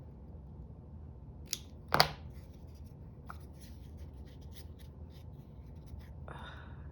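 Scissors snipping paper in a series of short cuts, with a louder sharp click about two seconds in and a brief rustle of paper near the end.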